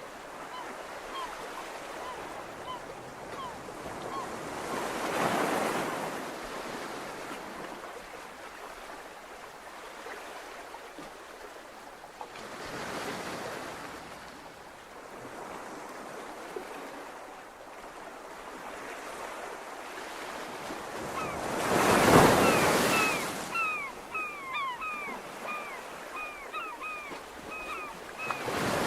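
Surf washing on a beach, a wave surging in every eight seconds or so, with the loudest break about two thirds of the way through. A southern lapwing calls a few faint notes at the start, then gives a fast run of repeated sharp alarm calls through the last third, the bird's warning at an intruder on its ground.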